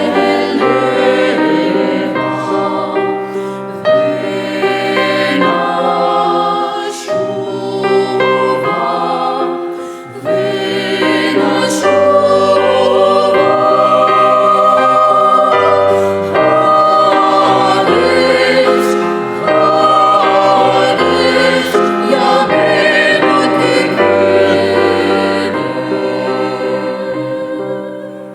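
Vocal ensemble singing in harmony, with held chords over a low bass line; the singing fades near the end.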